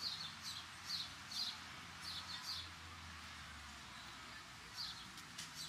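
A small bird chirping in short, high, repeated chirps, about two a second. The chirping pauses for a couple of seconds midway and resumes near the end, over a low steady hum of city traffic.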